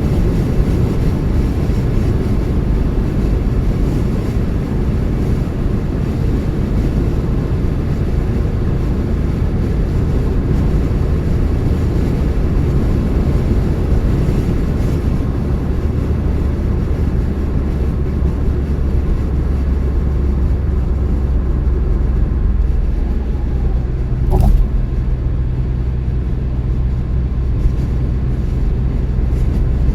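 A moving car's steady engine and tyre road rumble, low and even. A steadier low engine hum comes in late on, and there is a single sharp knock about 24 seconds in.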